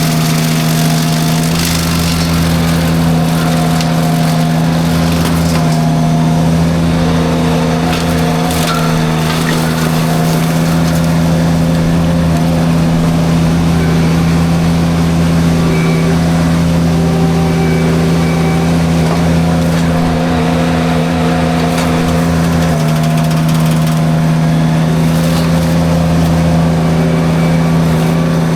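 Derette V1000 mini skid steer's engine and forestry mulcher drum running steadily at high speed, a loud constant drone. A few sharp cracks come through as the mulcher chews through light brush.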